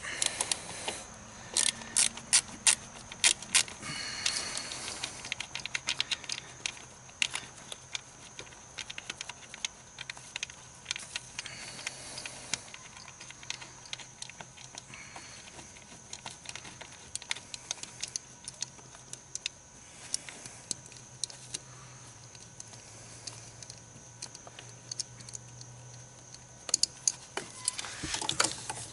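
Clicking and rattling of a socket wrench with a 10 mm socket on an extension, backing out a small screw. The clicks come in irregular clusters, thickest in the first few seconds and near the end, over a faint steady hum.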